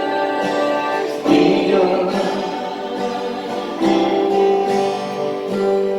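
Gospel music: a small group singing a slow hymn-style chorus in long held notes, with guitar accompaniment.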